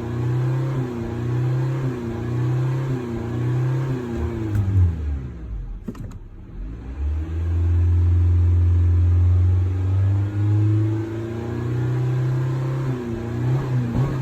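2020 Honda Civic engine being revved through its exhaust in quick repeated blips, about one every second. It drops back in the middle, is held steady for a few seconds, and the quick blips start again near the end.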